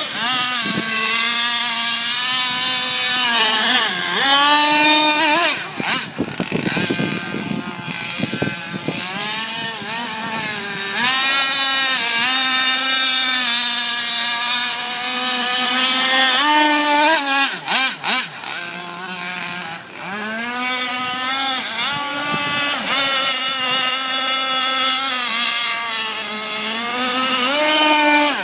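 Small engine of a fuel-powered radio-controlled boat running at high revs, its high-pitched buzz rising and falling as the throttle is opened and eased off, with several brief drops.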